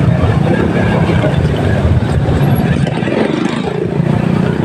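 Motorcycle on the move: the engine running under heavy, steady wind rumble on the microphone.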